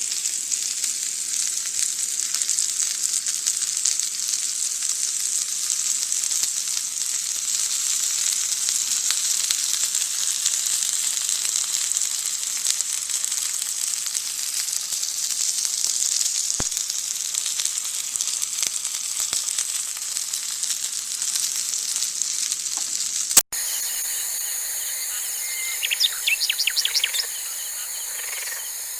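Food sizzling steadily in a hot frying pan, a dense crackling hiss. It stops at a sudden cut near the end, and a few short bird chirps follow.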